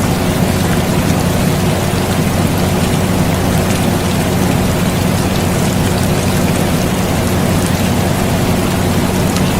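Steady rain mixed with the even hum of an air conditioner, with faint scattered drop ticks over the hiss.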